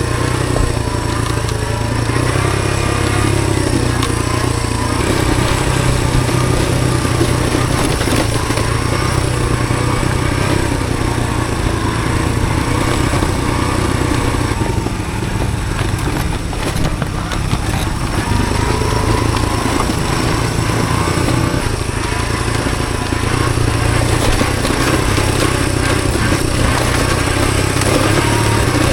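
Honda CT110 postie bike's small single-cylinder four-stroke engine running under way, its note wavering up and down a little with the throttle.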